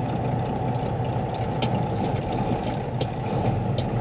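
Semi truck's diesel engine and road noise heard from inside the cab while driving: a steady low drone, with a few light clicks or rattles in the second half.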